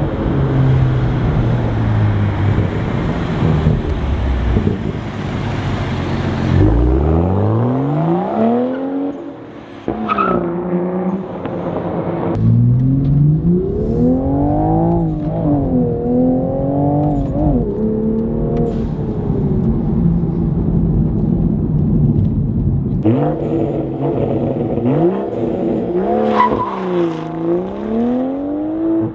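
Toyota GR Supra (A90) engine through an MBRP exhaust, accelerating in hard pulls. The note climbs in pitch and drops back at each upshift, with stretches of steady running between the pulls.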